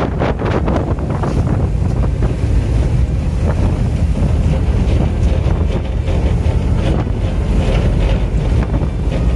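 Strong wind buffeting the microphone, a loud, steady low rumble, with the sea's waves beneath it.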